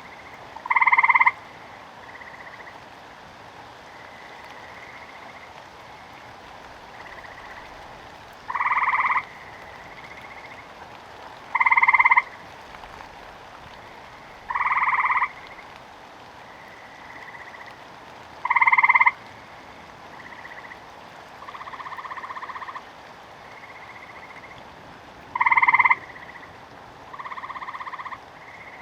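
Frogs croaking: six loud calls, each lasting under a second and spaced irregularly several seconds apart, with two softer, longer calls and fainter frogs calling in between, over a steady hiss of rain.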